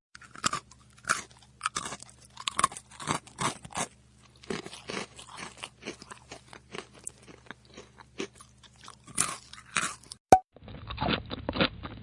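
Someone chewing crunchy food, a fast, irregular run of sharp crunches. About ten seconds in there is a short break and a blip, and a duller recording of rapid crunching chews follows.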